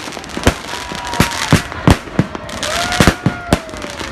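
Fireworks going off in a rapid, irregular string of sharp bangs and cracks, several a second, with a few long, slowly falling whistles in the second half.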